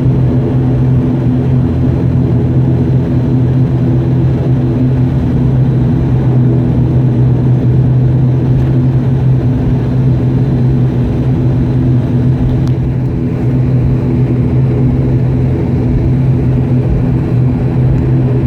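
Steady low drone of a turboprop airliner's engines and propellers, heard inside the cabin, with a constant deep hum that neither rises nor falls.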